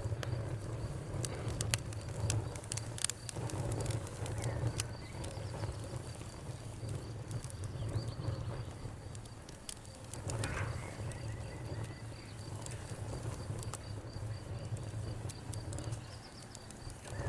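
Wood fire crackling with scattered sharp pops over a steady low rumble, while a cricket chirps in a continuous pulsing trill. A brief bird call comes about ten seconds in.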